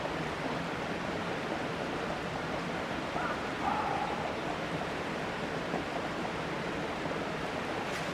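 Steady rushing outdoor noise with no break, and a faint short pitched sound about three and a half seconds in.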